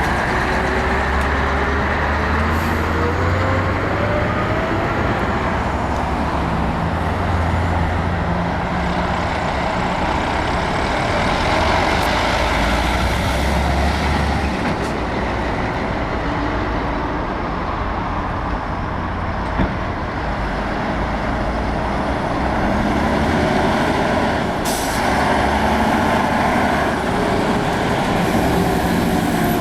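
Heavy diesel trucks running and passing, one engine rising in pitch as it pulls away in the first few seconds. A brief hiss of air, typical of a truck's air brakes, comes about 25 seconds in.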